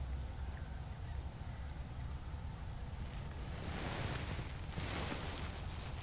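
Wild birds calling outdoors: about six short, high whistled notes, each bending up then down, in the first two and a half seconds and again around four seconds. Under them is a steady low rumble, and a soft rush of noise rises around four to five seconds.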